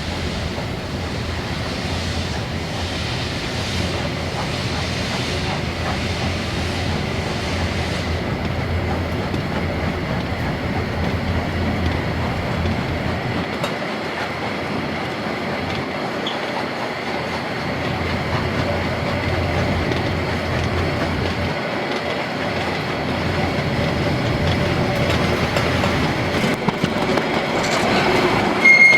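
Narrow-gauge train running along the track: a steady rumble and clatter of wheels on rails, with a thin high wheel squeal throughout. A brief sharper high-pitched tone comes about a second before the end.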